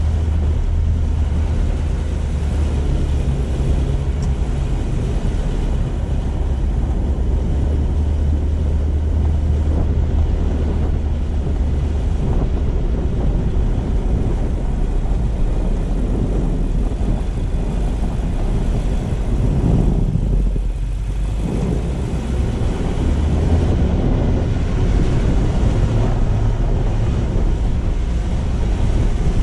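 Car driving, with a steady low engine and road rumble under tyre and wind noise. The hiss drops away briefly about twenty seconds in.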